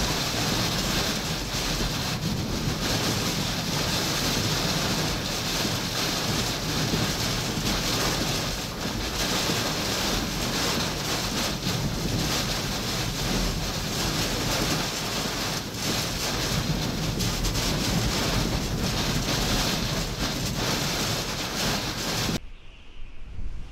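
Severe thunderstorm winds, around 60–75 mph, blasting against the microphone: a loud, steady rush of wind noise. It cuts off abruptly near the end.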